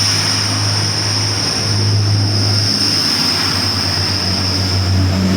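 Class 180 Adelante diesel multiple unit standing at the platform with its diesel engines idling: a steady low drone with a steady high whine above it.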